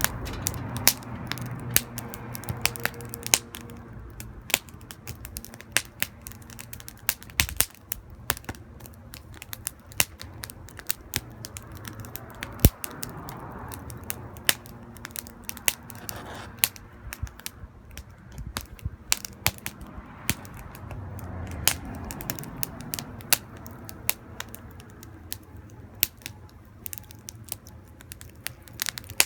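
Wood fire crackling: burning wood snapping and popping at irregular intervals, with sharp pops over a low, steady background of burning.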